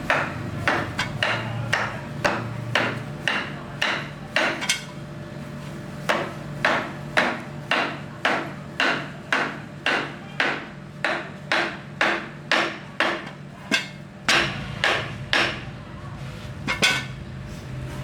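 Hammer blows, about two a second, in runs with brief pauses, each with a short ringing tail, over a low steady hum.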